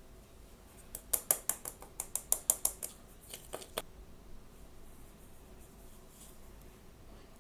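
Plastic or foil blind-bag packaging crackling as it is handled and opened: a quick run of about a dozen sharp crackles, then a few more after a short pause.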